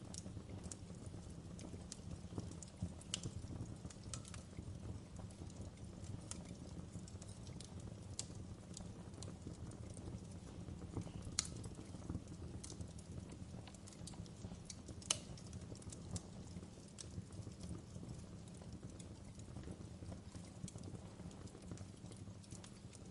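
Wood fire burning in a fireplace: a steady low rumble with scattered sharp crackles and pops at irregular intervals, the loudest pops about eleven and fifteen seconds in.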